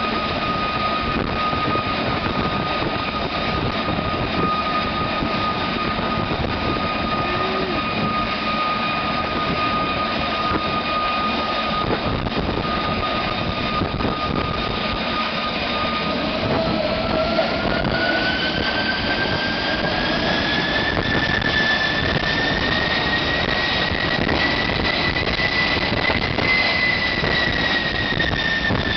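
GE J33 turbojet engine running in a test cell: a steady roar with a high whine that holds its pitch, then rises gradually about halfway through and eases off a little near the end.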